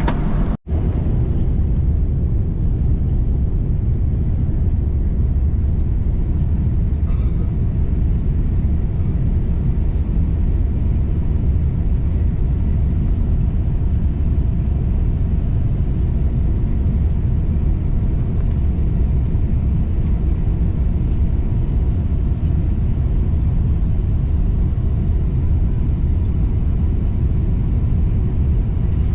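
Steady low rumble of an airliner heard from inside the passenger cabin, dropping out for an instant less than a second in.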